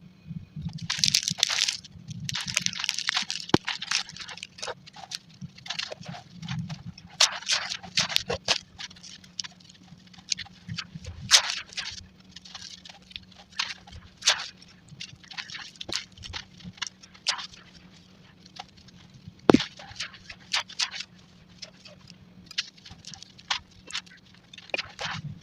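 Crumbly chunks of charcoal or brick being crushed, giving gritty crunching with sharp crackles and snaps at irregular intervals; the first few seconds are denser. A faint low steady hum runs underneath.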